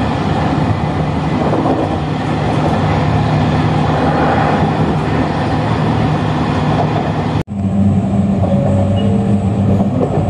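Train running, heard from inside the carriage: a steady rumble of wheels on rail with a low motor hum. A momentary drop-out comes about seven and a half seconds in, after which the hum is stronger.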